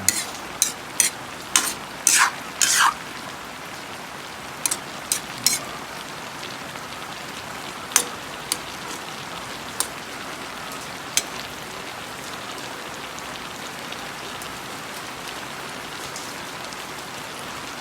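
Chopsuey vegetables sizzling steadily in a frying pan, with sharp clinks of a utensil against the pan: several close together in the first few seconds, then a few scattered ones.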